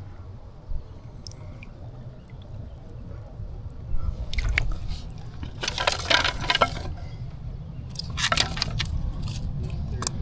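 Water splashing in three bursts, the middle one the longest and loudest, over a steady low rumble.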